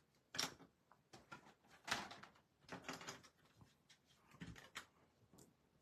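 Faint, scattered light taps and rustles of cardstock pieces being handled and set down on a craft table, about half a dozen short knocks spread across a few seconds.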